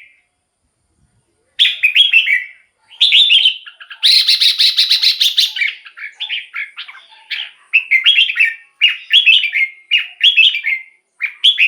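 Red-whiskered bulbul singing. After a brief silence it gives short, bubbling whistled phrases, roughly one a second, with a denser, louder burst of chatter about four seconds in.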